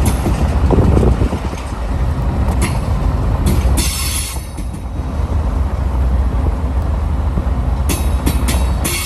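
Tank-car freight train rolling past with a steady low rumble of wheels on rail and sharp clicks over the joints. High-pitched wheel squeal comes in twice: briefly about four seconds in, and again near the end.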